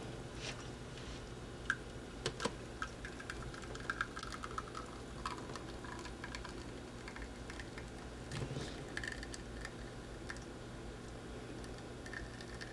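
Faint, scattered light clicks and taps, irregular, with a few sharper single clicks in the first few seconds, over a steady low hum.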